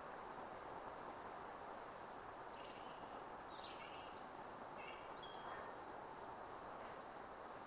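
Faint, steady outdoor background hiss, with a small bird chirping several short times in the middle.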